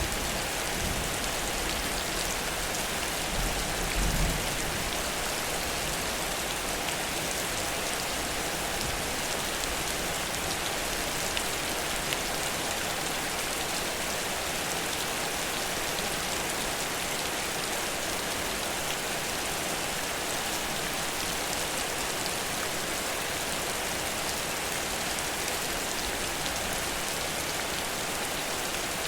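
Heavy rain falling steadily, with a brief low rumble about four seconds in.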